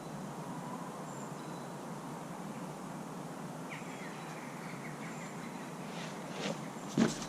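Steady outdoor woodland ambient noise with a faint bird call, a short series of falling chirps about halfway through. A single sharp knock near the end.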